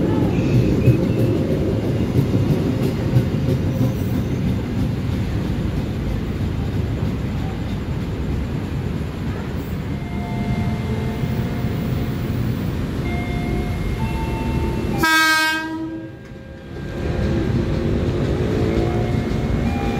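Electric multiple-unit train rumbling along the platform as it pulls out. About fifteen seconds in, an arriving KRL Commuter Line electric train sounds one loud, short blast on its horn, and its rumble builds as it approaches.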